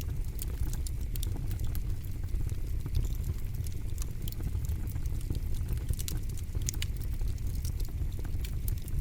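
Campfire crackling: frequent, irregular sharp snaps and pops of burning wood over a steady low rumble.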